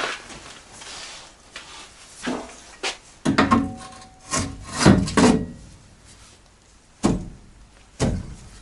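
Hand work on a car's transfer case: metal tools and parts knocking and scraping, busiest in the middle, with two sharp knocks near the end.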